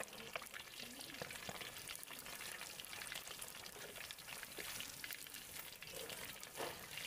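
Chicken frying in hot oil in a pan, with a steady sizzle and dense crackling.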